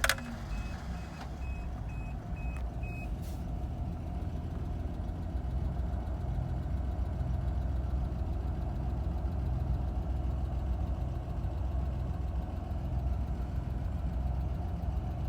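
1987 Toyota Land Cruiser FJ60's inline-six running steadily just after a cold start, at idle with the choke pulled out. A high warning beep repeats about twice a second for the first few seconds, then stops.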